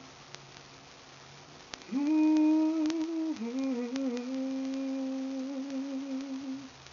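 A woman humming unaccompanied: two long held notes starting about two seconds in, the second a little lower with a slight waver, ending shortly before the close.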